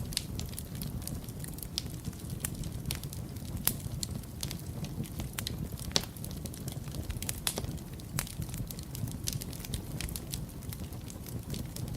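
Wood fire burning in a fireplace: a steady low rumble of flames with frequent irregular crackles and pops, a couple of sharper pops about 4 and 6 seconds in.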